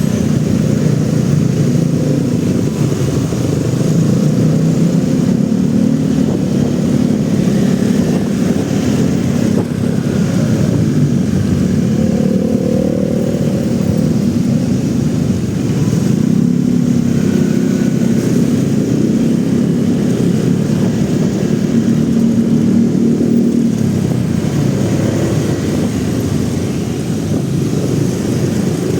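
Motorcycle engine running in dense city traffic among other vehicles' engines, its pitch rising and falling with the throttle.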